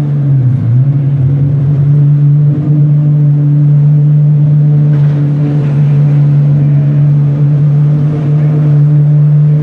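Apollo supercar's engine running at a steady engine speed, with a brief dip in pitch about half a second in.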